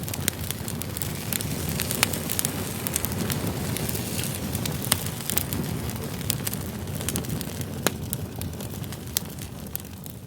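Firewood burning in a campfire: a steady low rush of flame with irregular crackles and sharp pops from the logs.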